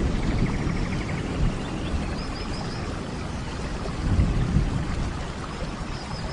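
Steady heavy rain with a low rumble of thunder that swells about four seconds in.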